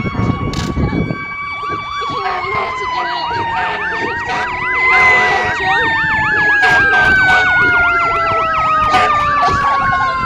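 Emergency vehicle sirens sounding together. One is a fast yelp that cycles about three times a second from about two seconds in. Under it runs a held siren tone that slides slowly lower toward the end.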